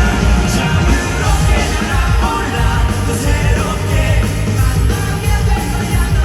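A rock band playing live with a sung lead vocal, loud and dense, heavy in the bass and drums.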